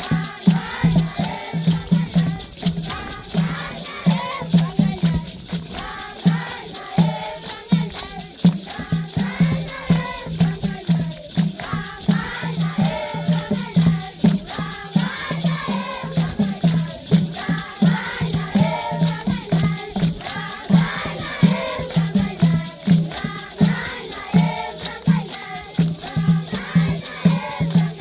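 Traditional Zimbabwean rain-dance music: a group of children singing together over a steady drum beat, with shaken rattles keeping up a continuous hiss.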